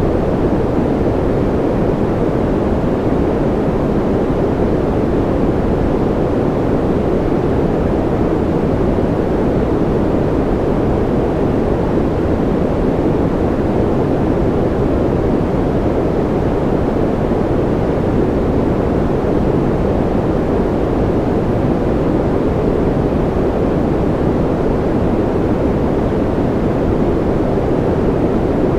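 Steady, unchanging electronic noise of a sleep track, billed as white noise: a deep, even rushing hiss, heaviest in the low tones with little treble.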